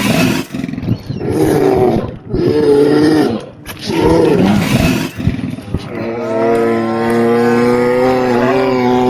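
Grizzly bear calling: several short calls that rise and fall in pitch, then one long, steady call beginning about six seconds in.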